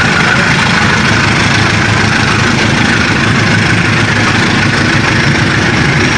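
Diesel-hauled passenger train departing, with the diesel engine running steadily as the coaches roll past on the rails.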